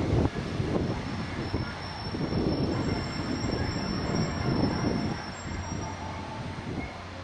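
Diesel multiple unit train running out of sight with an uneven low rumble. A thin high wheel squeal sounds from about a second and a half in until about five seconds in.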